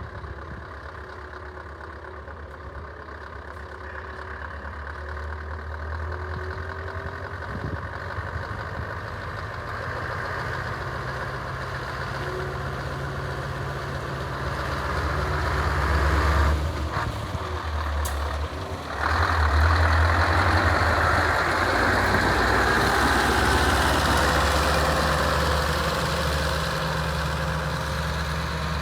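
Scania R500 truck's V8 diesel engine running with a steady low hum. It grows louder through the first half, drops briefly about two-thirds of the way in, then comes back louder and stays up.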